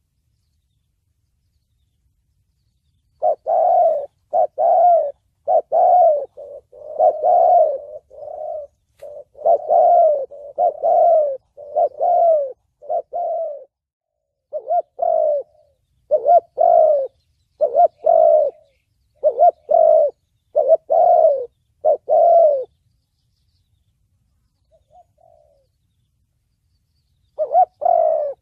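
Spotted dove (chim cu gáy) cooing in the 'thổ bầu' voice, a call style used to lure and train doves. The bird starts about three seconds in with a long run of repeated deep coos, pauses after about 22 seconds with a couple of faint coos, and starts cooing again near the end.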